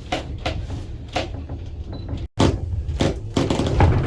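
Electric funicular cliff railway car riding up its track: a steady low rumble with irregular clunks and knocks.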